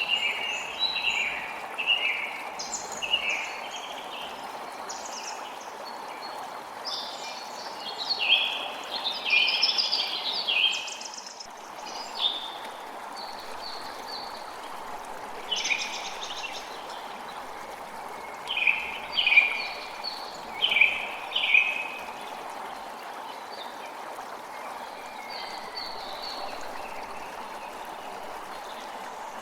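A creek runs steadily while songbirds call over it in clusters of short, high chirping notes. The calls are busiest in the first half and loudest in a run of four or five notes around two-thirds of the way through, then thin out near the end, leaving mostly the stream.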